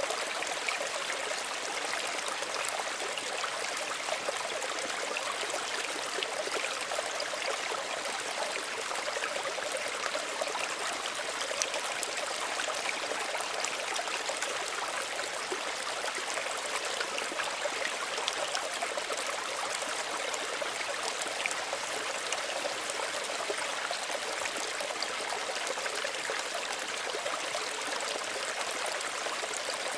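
Small stream of water running steadily over stones: a constant babble, sprinkled with fine splashes and trickles.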